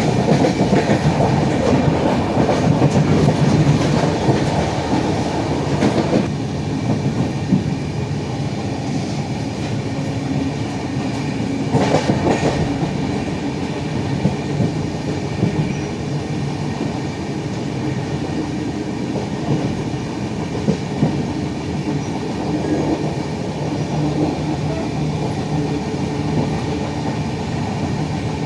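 Sealdah–Jammu Humsafar Express passenger train running on the track: a continuous rumble with irregular wheel clatter, and a louder clank about twelve seconds in.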